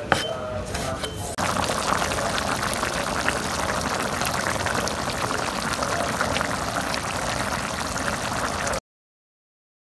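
A pan of pork and beef stew with potatoes and mustard greens bubbling in its broth, a dense steady crackle of popping bubbles. It starts about a second and a half in, after a few knife clicks on a chopping board, and cuts off suddenly near the end.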